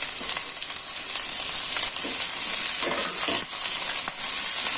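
Sliced mushrooms, onion and green capsicum sizzling in hot oil in a stainless steel pan as they start to sauté, with the scraping strokes of a spatula stirring them, a few of them clustered around the middle.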